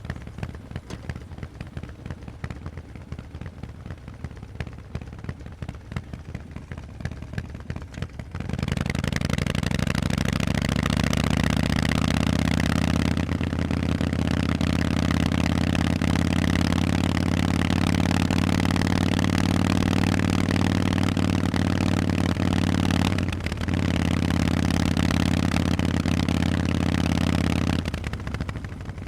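Harley-Davidson Forty-Eight's V-twin through Vance & Hines exhausts, running low and quiet at first. About eight seconds in the throttle opens and the exhaust note rises to a loud, steady run, with a brief dip about two-thirds of the way through, before it drops back down near the end.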